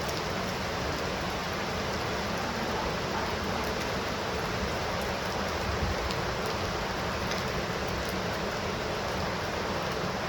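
Steady heavy rain falling, an even hiss with a few faint drop ticks now and then.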